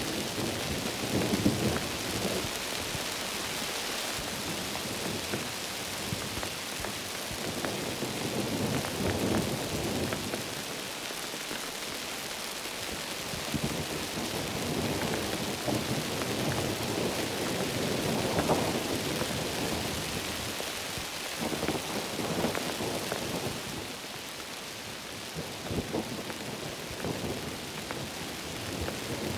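Heavy rain falling steadily, with low rumbles of thunder that swell and fade several times.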